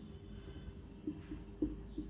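Quiet room tone with a low steady hum and a few faint soft ticks.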